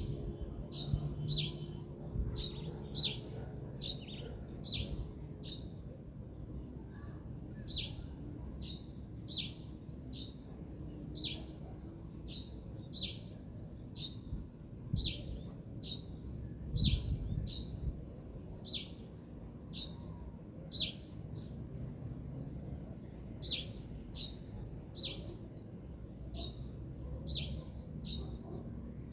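A songbird chirping over and over: short, sharp, falling chirps, about one or two a second, with a few brief pauses. A low rumble of wind runs underneath.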